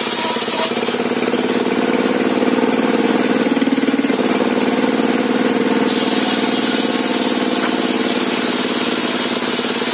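Sawmill engine running steadily, with a brief shift in pitch about three and a half seconds in.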